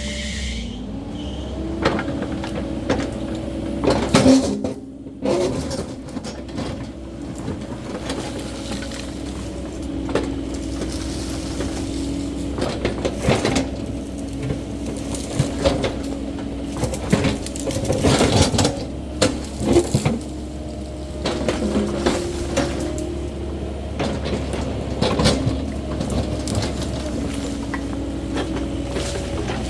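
CAT 308E2 mini excavator's diesel engine running under hydraulic load. It steps up in pitch just after the start and shifts now and then as the machine works. Over it come repeated sharp clanks and cracks as the machine clears brush and ground, loudest about four seconds in and again around eighteen seconds.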